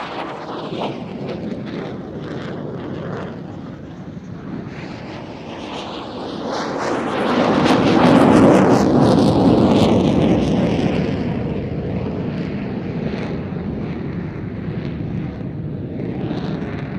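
Single-engine fighter jet roaring through a display pass. The roar builds to its loudest about eight to ten seconds in and then eases off, with a faint sweeping change in pitch as it goes by.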